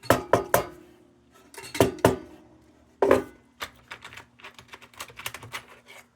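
Sheet-tin parts of a 1945 Dietz No. 2 Blizzard lantern being handled: several sharp metallic clanks in the first three seconds, some left briefly ringing, then a run of light quick clicks and taps.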